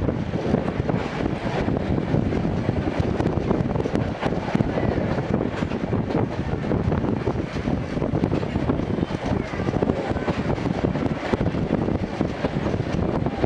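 Steady running noise heard inside an old-type passenger coach of a steam-hauled train: wheels rumbling on the rails, with scattered short clicks.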